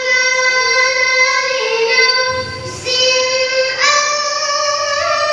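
Quran recitation (tilawah) by a single high voice, holding long melodic phrases with ornamented turns and pausing briefly for a breath about halfway through.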